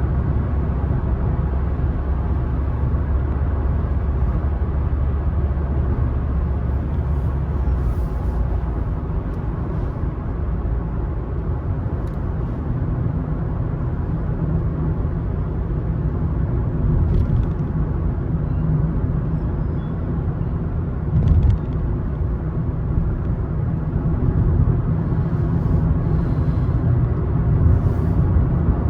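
A car driving along a road: a steady rumble of engine and tyres. A low drone in the rumble changes about eight seconds in, and there is a short bump about 21 seconds in.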